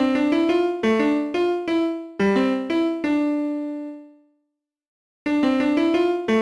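Piano-like keyboard music: a melody of separate notes, about two to three a second, ending in a held note that fades out to silence about four seconds in, then picking up again a second later.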